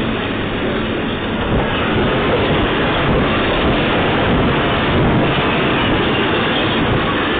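Loud, continuous rumbling with dense irregular rattling: an earthquake shaking a building and its contents.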